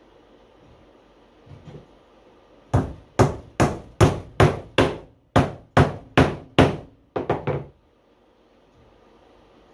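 Hammer driving small nails into a wooden beehive frame: about ten steady blows, with a short pause in the middle, then three quick lighter taps.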